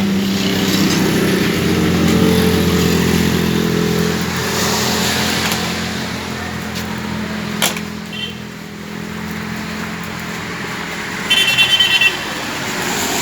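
Road traffic: a vehicle engine running steadily and then fading, followed near the end by a horn honking in a quick burst of short beeps.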